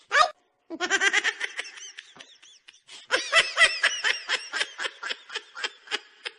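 High-pitched laughter in quick repeated bursts, two bouts with a short lull between them.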